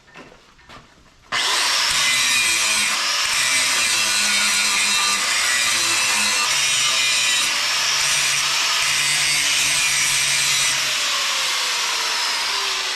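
Power grinder cutting into steel plate, grinding out a hairline crack before it is welded. It starts suddenly about a second in and runs steadily at a loud level.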